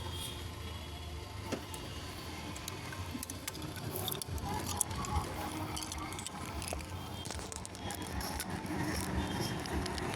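Faint steady rumble of distant traffic with scattered light clicks and rattles.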